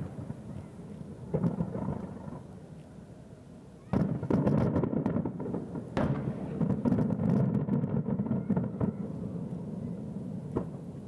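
Aerial firework shells bursting, heard from about 2 km away: deep booms that each roll on into a long rumbling echo. The biggest come about four seconds in and again at six seconds, with smaller bursts near the start and near the end.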